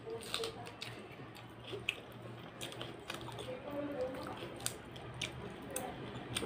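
Close-miked wet chewing and lip-smacking of a mouthful of rice and dal, with many short sharp smacks, along with squishing as fingers mash rice and dal on the plate.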